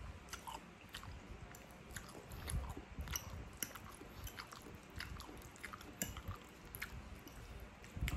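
A person chewing a mouthful of spaghetti, with many small sharp clicks scattered throughout.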